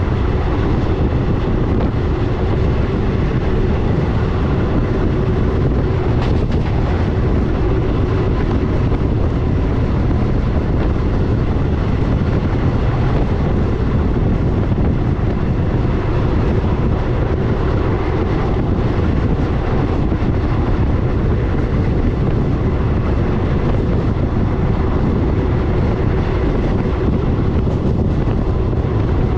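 Passenger train running steadily along the track: a constant, unbroken rumble of wheels and carriage.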